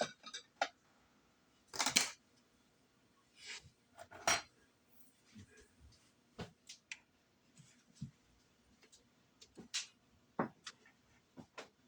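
A utensil knocking and scraping against the Instant Pot's inner pot while dumplings are stirred and one is picked out to test: scattered light clicks and knocks, with a louder scrape about two seconds in and another about four seconds in.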